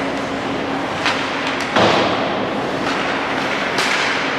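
Ice hockey game sounds in a rink: a steady hum under a few sharp knocks of stick and puck, the loudest just before two seconds in.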